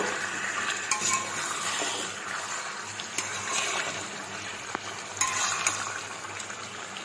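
Marinated chicken pieces sizzling as they fry in hot oil in a kadai, the first side browning, with a spatula now and then scraping and clicking against the pan.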